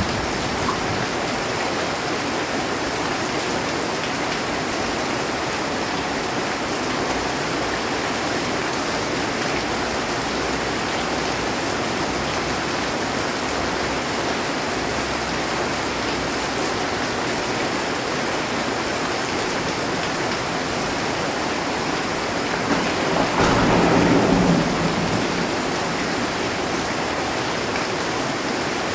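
Heavy rain drumming steadily on a metal roof. About 23 seconds in, a low roll of thunder swells for a couple of seconds and fades back under the rain.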